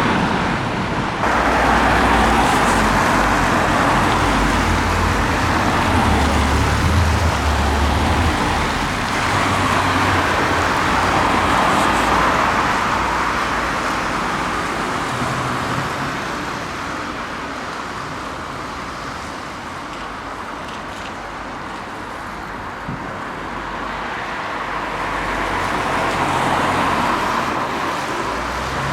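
Road traffic on a wet road: steady tyre hiss and engine noise of passing vehicles, swelling as they pass, fading in the middle and rising again near the end.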